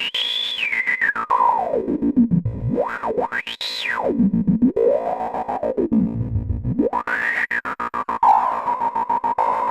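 ADDAC105 4 Voice Cluster Eurorack synth module playing a fast stream of retriggered hits. Its bright tone sweeps down and up in pitch several times, from high to very low and back, then settles at a steady middle pitch near the end.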